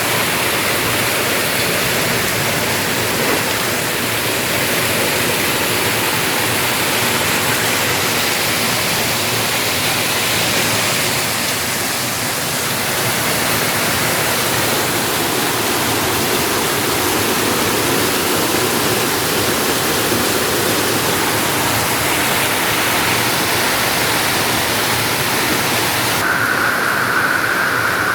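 Heavy rain pouring down in a steady, loud rush. Near the end a thin, steady high whine comes in.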